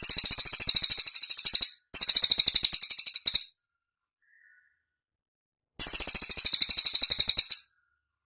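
Cililin bird singing a high-pitched, rapid chattering trill in three bursts, the third starting near the end, with a faint short chirp between the second and third.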